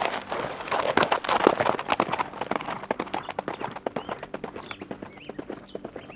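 Hoofbeats of horses galloping on hard ground, a dense patter of many hooves that thins out in the second half. A few short bird chirps come in near the end.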